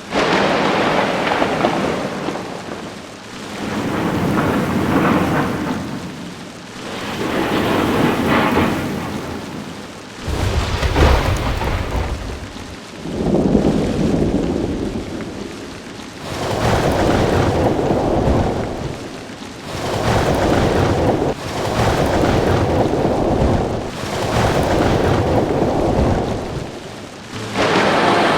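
Heavy rain with rolling thunder, the storm noise swelling and fading in waves every two to three seconds, with deep low rumbles from about ten seconds in.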